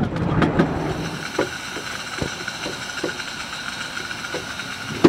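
Miniature railway train running on its track. A loud rush of noise dies away within the first second, then irregular clicks and knocks over the rail joints continue over a faint steady tone.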